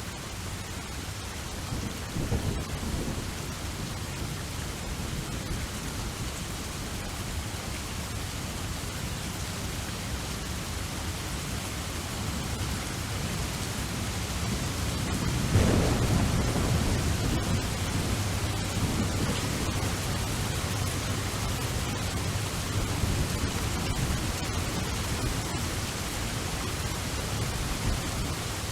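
Steady rain with rolling thunder: a low rumble a couple of seconds in and a louder, longer one about halfway through that slowly dies away.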